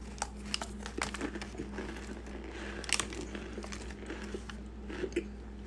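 Mouth crunching on a hard white block being bitten and chewed: a scatter of short, sharp crackles and snaps, with a few louder cracks, the loudest about three seconds in.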